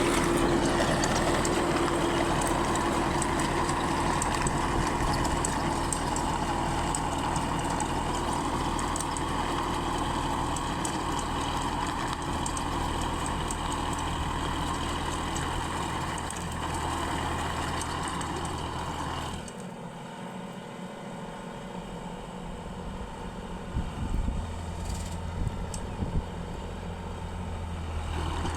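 Sonalika 745 DI tractor's diesel engine running steadily. About two-thirds of the way through it drops suddenly to a quieter, lower hum, with a few short knocks near the end.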